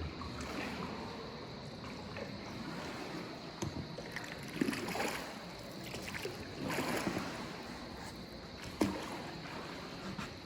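Small boat moving on still water: water lapping and splashing against the hull, with a few knocks about four and nine seconds in.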